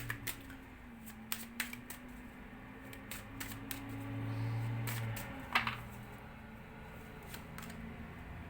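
Tarot cards being handled and laid out: scattered light clicks and snaps of the cards, one a little louder about five and a half seconds in, over a low steady hum.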